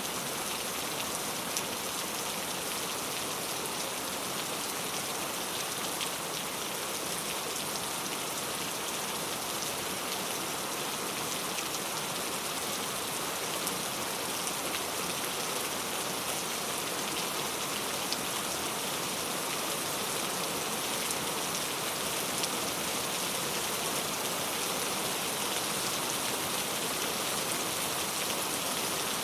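Heavy rain falling steadily: a dense, even hiss of rain with faint scattered drop ticks.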